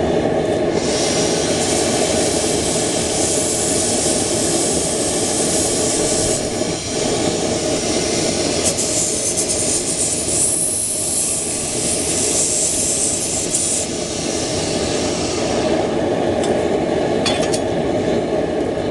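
Forge running with a steady rushing noise and a low hum, a brighter hiss over it for much of the time; it cuts off abruptly at the end as the forge is shut off.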